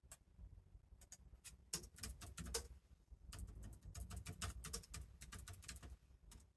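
Typing on a keyboard: two bursts of quick, irregular key clicks, the first about a second in and the second from about three seconds in.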